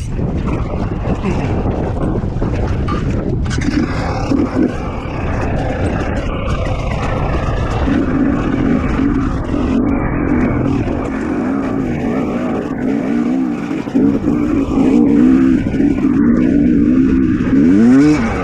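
Two-stroke dirt bike engine, a KTM 250 XC-W, revving up and down repeatedly while picking through slow rocky terrain. A loud rev rises and falls near the end.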